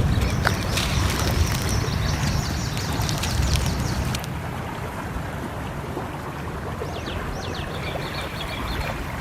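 Small birds chirping in quick repeated high notes, twice, over a steady low rumble of running water and wind. A few sharp crackles come in the first half.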